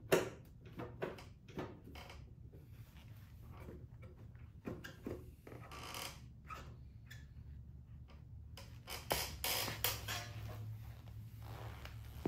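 Scattered light clicks and knocks, irregular and a few a second, over a faint steady low hum, with a sharper knock near the start and a busier run of clicks near the end.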